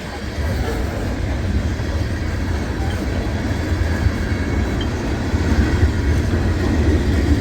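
Freight cars of a long mixed freight train rolling past, a steady low rumble of wheels on rail.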